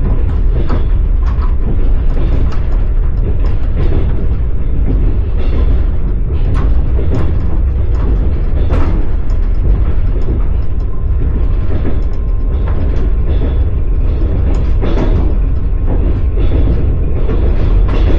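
Passenger train carriage running at speed, heard from inside the car: a steady low rumble with the clatter and knocks of the wheels over the rails.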